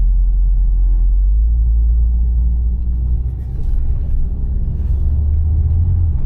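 A 2012 Ford Focus being driven, heard from inside the cabin: a steady low engine and road rumble, on a test drive after a new dual clutch was fitted to its DPS6 transmission. The drone rises in pitch about a second in, dips briefly a little past three seconds, and falls just before the end.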